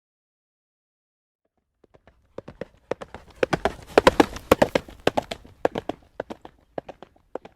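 A horse's hooves clip-clopping on a road at a trot. After about two seconds of silence the hoofbeats start, grow louder to a peak about four seconds in, then fade, as the horse passes by.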